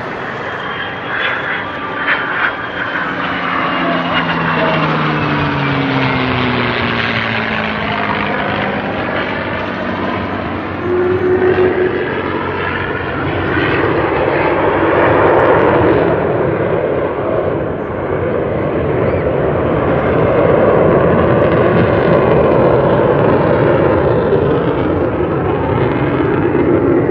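Aircraft engine noise from a plane flying past, loud throughout. Its pitch falls over the first several seconds as it passes, and it swells again later as it comes back around.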